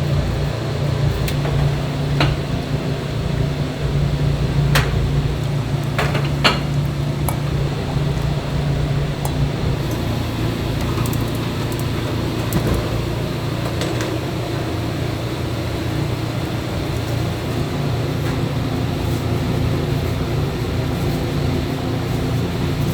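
Steady machine hum, like a kitchen fan or appliance running, with a few light clinks of dishes or utensils in the first several seconds.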